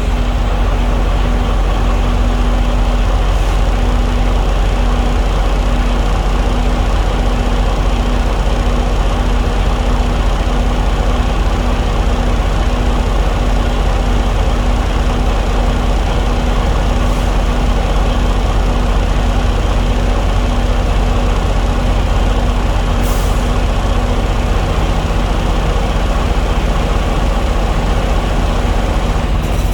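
Diesel engine idling steadily and loudly, with a faint tone pulsing on and off about once a second underneath.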